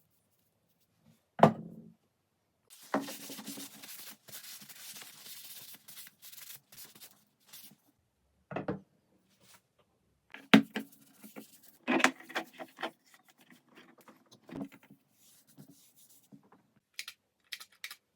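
Wooden pieces being handled: several separate knocks of wood on wood, with a few seconds of scraping and rubbing early on and light clicks near the end.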